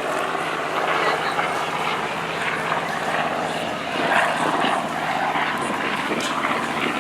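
Grumman TBM Avenger's Wright R-2600 radial engine droning steadily as the aircraft flies its display.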